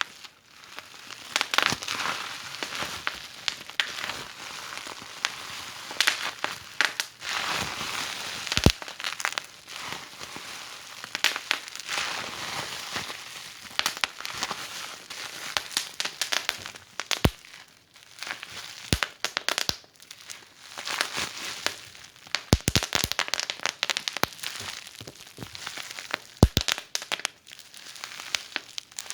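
Wood fire in a fireplace crackling, with a steady hiss and frequent sharp pops and snaps at irregular intervals.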